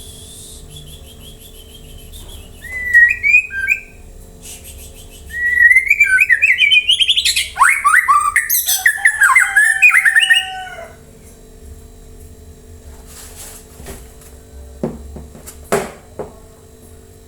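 Murai batu (white-rumped shama) singing: a short whistled phrase about three seconds in, then a loud run of rapid, varied whistles and slurred notes lasting about five seconds. A few sharp clicks follow near the end, over a faint steady hum.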